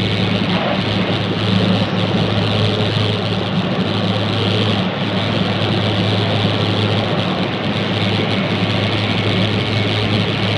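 Running noise inside a Jōetsu Shinkansen car travelling at speed: a steady low hum under an even rushing noise.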